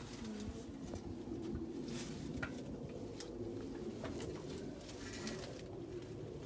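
A bird cooing repeatedly at low pitch, with a few scattered light clicks and taps.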